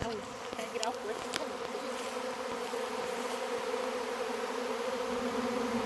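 A honey bee swarm buzzing: a steady hum of many wings, with single bees gliding past close to the microphone in the first second or so.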